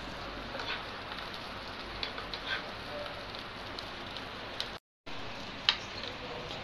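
Omelette frying in hot ghee in a frying pan: a steady sizzle, with a few light clicks of a steel spoon against the pan. The sound cuts out for a moment about five seconds in.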